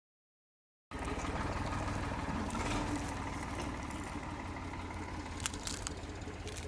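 Escort 355 tractor's diesel engine running steadily at idle, its firing pulses even; the sound cuts in abruptly about a second in, and a few light clicks come near the end.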